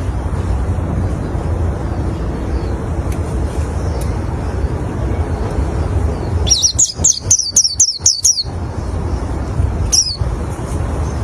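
White-eye (pleci) calling: a quick run of about eight high chirps, each dropping in pitch, a little over halfway through, then one more chirp near the end. A steady low rumble runs underneath.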